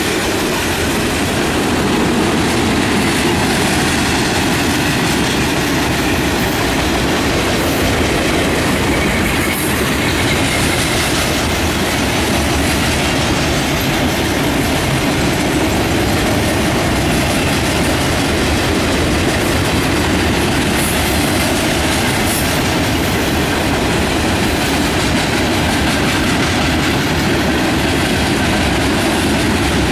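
Manifest freight train's cars rolling past at speed: a steady, loud rumble and clatter of steel wheels on the rails.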